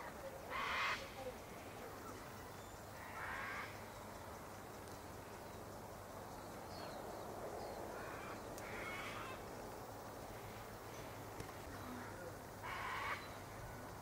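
Harsh, rasping bird calls, about five short ones spaced a few seconds apart, the loudest about a second in, over a faint steady background hum.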